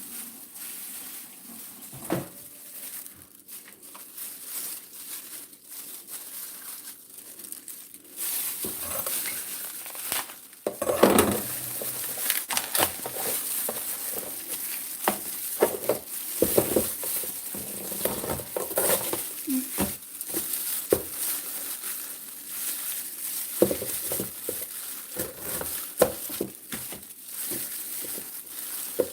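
Crinkling and rustling with many scattered light clicks and knocks, growing busier and louder about eight seconds in.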